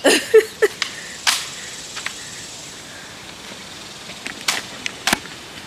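Four sharp gunshots at irregular spacing: two in the first second and a half, then two more about four and a half and five seconds in.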